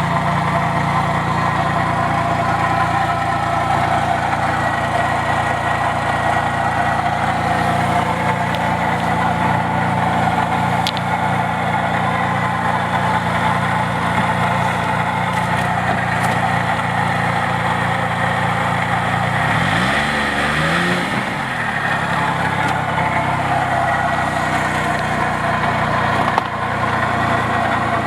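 2003 Arctic Cat Bearcat Widetrack snowmobile's four-stroke engine idling steadily, its pitch briefly rising and falling about twenty seconds in.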